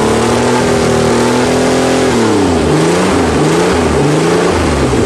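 1986 Ford Ranger pickup's engine running just after a cold start, being revved. The pitch climbs for about two seconds, drops, then rises and falls in a few quick throttle blips.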